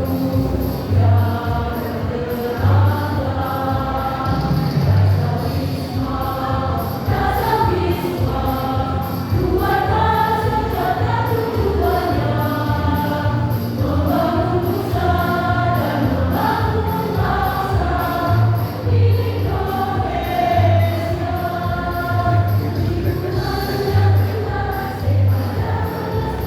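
Choir singing together over a steady accompaniment with a regular low beat.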